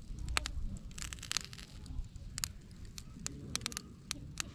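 Crackling of a camp cooking fire: irregular sharp pops and snaps, several a second at times, over a steady low rumble.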